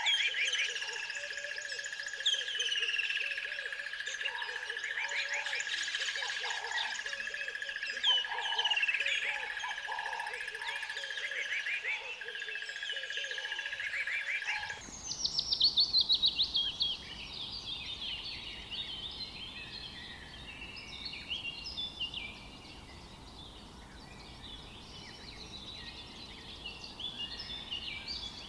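Several birds chirping and singing over a steady high tone. About halfway through, the background changes abruptly to a fuller outdoor ambience in which the birds go on calling, one with a fast run of falling chirps just after the change.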